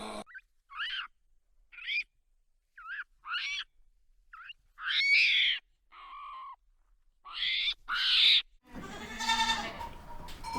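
A series of short, high animal calls, each rising and falling in pitch, with silent gaps between them. Near the end a longer, fuller animal call begins.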